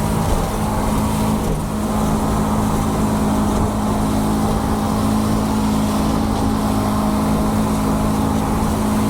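Small fishing boat's engine running under way, picking up a little in pitch in the first couple of seconds, then holding steady.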